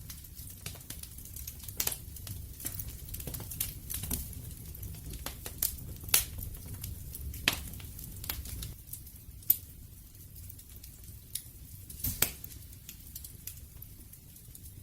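Wood fire crackling, with irregular sharp snaps and pops over a low steady rumble of the flames; a few pops stand out louder, about two, six, nine and a half and twelve seconds in.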